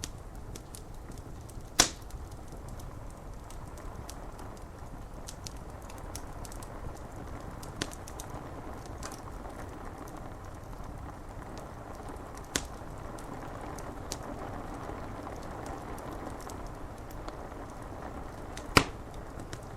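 Wood fire crackling with many small snaps, and two loud pops, one about two seconds in and one near the end, over a steady hiss of rain.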